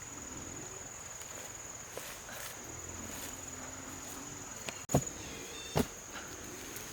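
A steady high-pitched insect call drones throughout. Two sharp knocks stand out, about five and six seconds in.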